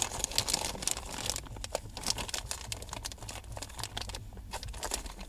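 Plastic packaging crinkling and tearing as a bag holding a wiring harness is opened and handled, with irregular crackles throughout.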